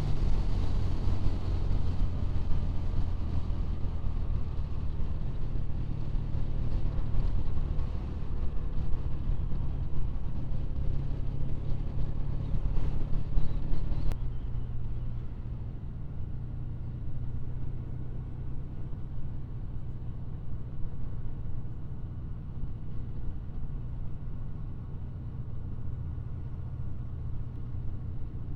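Triumph Bonneville's parallel-twin engine running steadily at road speed, heard from the moving motorcycle, with road and wind noise over it; the sound drops slightly in level about halfway through.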